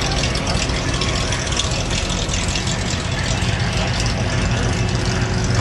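A car engine idling, its steady low hum growing clearer about halfway in, over a continuous background din.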